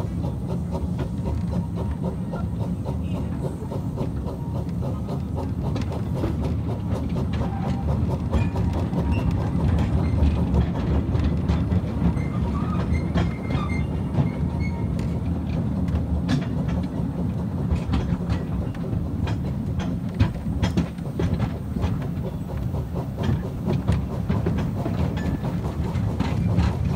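Narrow-gauge passenger train running along, heard from aboard an open carriage: a steady low rumble of the wheels with rapid clickety-clack over the rail joints.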